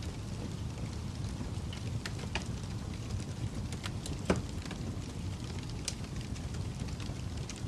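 Wood fire crackling: a steady low rumble with scattered sharp pops and snaps, the loudest pop about four seconds in.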